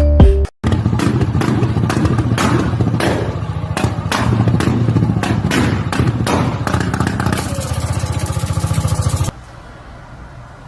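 A vehicle engine running hard, with repeated thuds, clattering and scraping over it; the sound cuts off suddenly near the end, leaving a low background hum.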